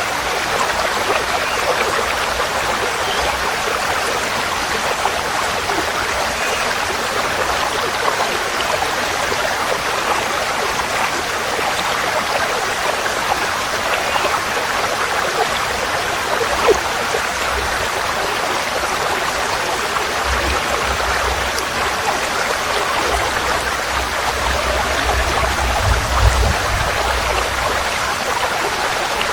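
Forest stream flowing steadily over stones, an even rush of water. A low rumble swells in and out during the last third.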